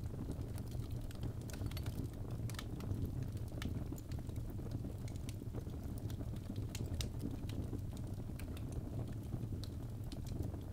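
Birch logs burning in a fireplace: a steady low rumble of flames with many irregular sharp crackles and pops.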